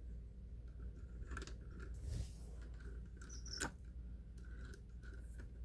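Faint handling clicks of a model train car being set onto O-scale track, with a sharper click about a second and a half in and another nearer four seconds in, over a low steady hum.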